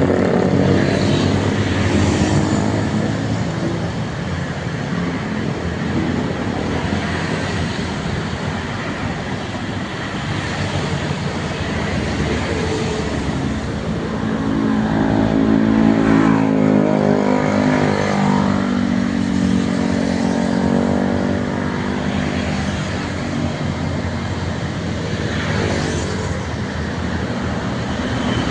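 Road traffic passing: truck and other vehicle engines with tyre noise. About halfway through, one engine rises in pitch as it accelerates past.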